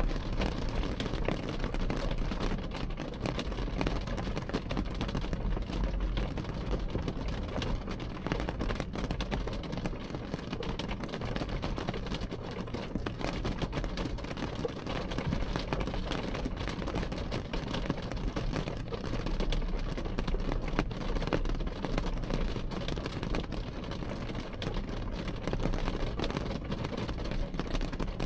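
Rain falling on window glass, heard from behind the glass: a dense, steady patter of drops over a steady low rumble.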